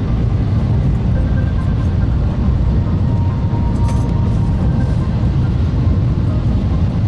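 Shinkansen bullet train running at speed, heard from inside the passenger cabin: a steady, loud low rumble with faint thin tones above it.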